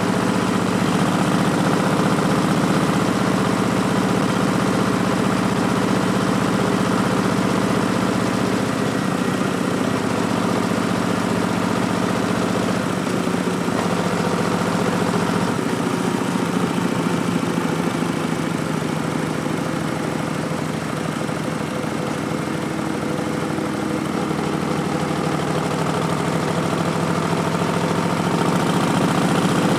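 Harley-Davidson Street Bob's Milwaukee-Eight V-twin running through Vance & Hines Twin Slash slip-on mufflers with a steady note, easing a little in the middle and building again near the end.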